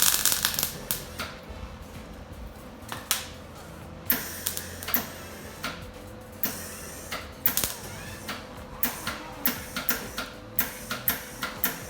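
A loud rushing noise that stops about half a second in, then a run of irregular sharp knocks and taps, often in quick pairs or clusters, each with a short ring, over a faint steady hum.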